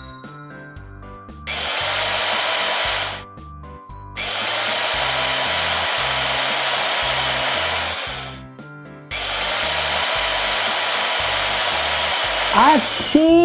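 Cartoon power-drill sound effect whirring in three runs of a few seconds each, tightening a part of the truck's mechanism. A short sliding tone comes near the end.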